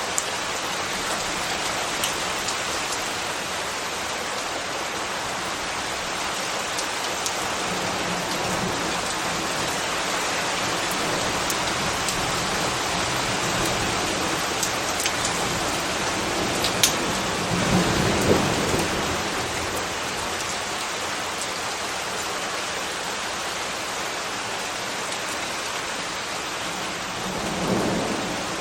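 Steady rain hissing, with scattered sharp drip ticks. A low swell rises and fades twice, once about two-thirds of the way through and again near the end.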